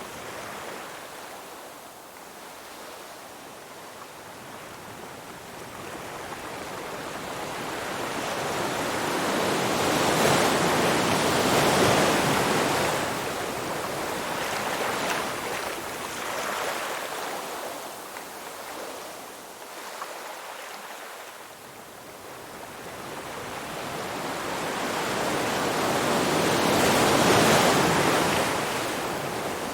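Ocean waves breaking and washing up the shore, the surf swelling and falling away in two slow surges, the louder crests about ten and twenty-seven seconds in.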